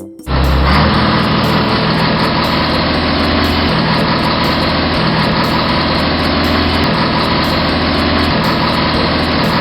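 Truck engine sound effect running steadily, starting abruptly a fraction of a second in, with its low note stepping slightly up and down a few times.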